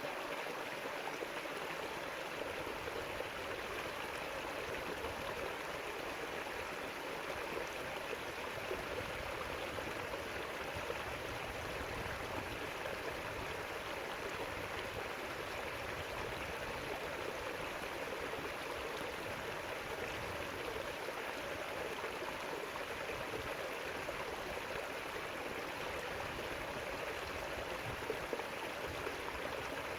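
A river flowing over rocks: a steady rush of water with small gurgles and splashes.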